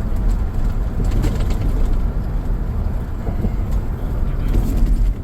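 Pickup truck driving over a bridge: a steady low rumble of road and engine noise, with a few faint knocks.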